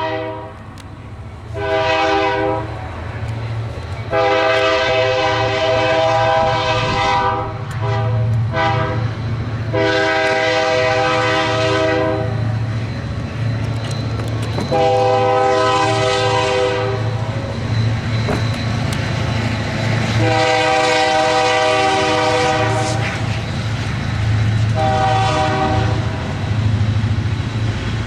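Diesel freight locomotive's multi-chime air horn sounding a series of long and short blasts, about eight in all, over the steady low rumble of the moving train.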